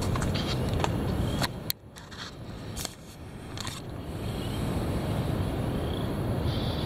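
Heavy wind gusting and buffeting against the microphone as a low rumble that drops away about two seconds in and then builds back up, with scattered sharp clicks.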